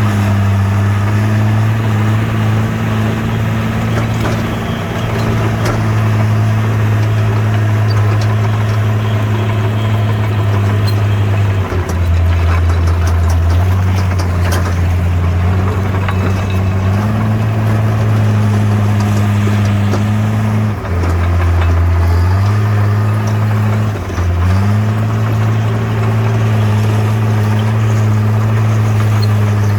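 Bulldozer's diesel engine running steadily under work. Its note sags three times, briefly, as the machine takes load.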